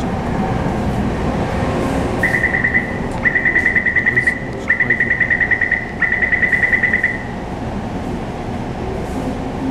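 Taipei MRT C301 train's warning beeper sounding in four spells of rapid high beeps, the signal that the doors are about to close. Under it, the steady rumble of the train interior.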